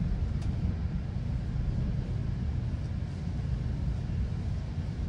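GO Transit commuter train in motion, heard from inside the passenger coach: a steady low rumble of wheels on the rails and the moving car.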